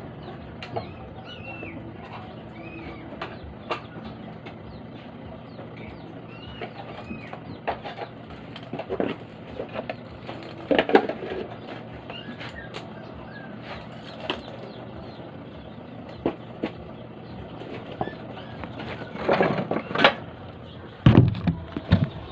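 A steady low hum with scattered clicks and clattering knocks, loudest about nine and eleven seconds in and again near the end. Small birds chirp in the first half.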